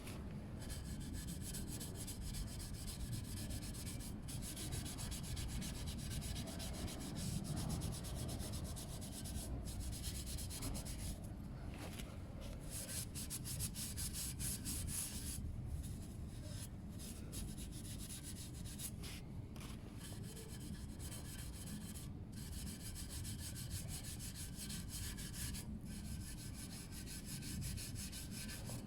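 Brillo steel-wool pad scrubbing a stainless steel motorcycle exhaust pipe with a steady run of quick scouring strokes, working Harpic toilet-cleaner paste in to strip off the black discoloration.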